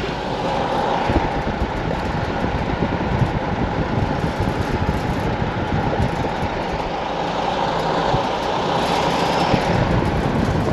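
A car driving along, with steady road and engine noise.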